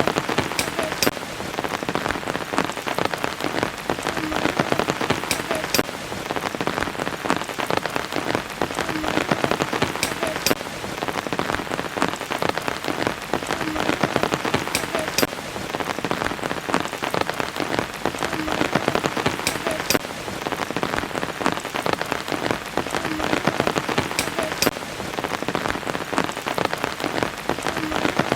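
Steady rain falling, with many sharp drop hits close by. The same few seconds of rain repeat about every five seconds, a looped recording.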